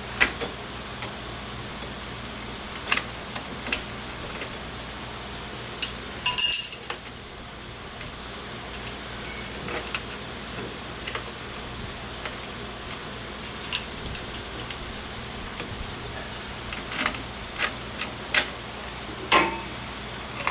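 Metal drum-brake hardware and hand tools clicking and clinking in scattered taps as the springs and self-adjuster are fitted, with a brief, louder ringing metallic clatter about six seconds in.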